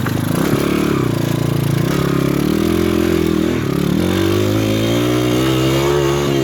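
PitPro 140cc pit bike's single-cylinder four-stroke engine revving under load as it is ridden up a slope, its pitch dipping briefly at the start and again about four seconds in, then climbing as the throttle is opened.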